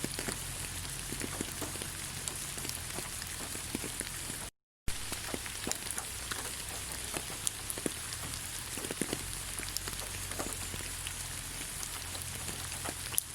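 Steady rain falling on leaves: an even hiss full of separate drop ticks. A brief gap of silence breaks it about four and a half seconds in.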